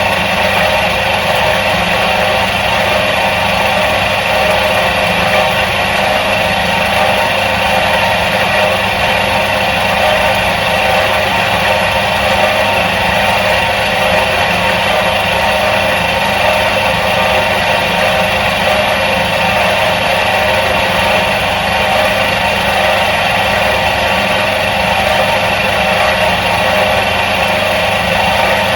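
Electric motor of a 1977 Soviet washing machine running steadily, with an even, unchanging hum and whirr.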